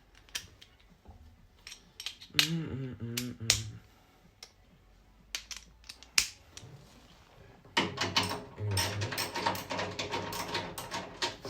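Scattered sharp clicks and knocks of tools and metal parts being handled on a washing machine, then a dense rattling clatter of rapid clicks for the last few seconds.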